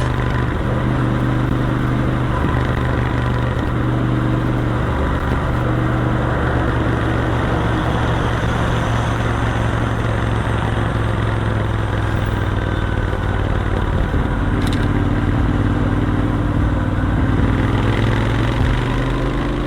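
Royal Enfield Continental GT 650's parallel-twin engine running steadily at highway speed, with wind and road noise over it. Near the end the engine note rises as the revs climb.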